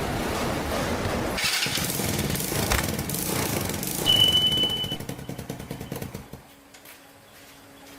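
Small motorbike engine running, with a brief steady high-pitched tone about four seconds in; the sound drops away sharply after about six seconds.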